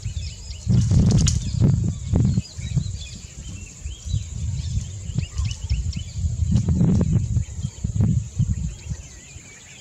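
Outdoor wildlife ambience: many small birds chirping and a steady high insect drone, broken by irregular bursts of low rumbling noise, loudest about a second in and again near seven seconds.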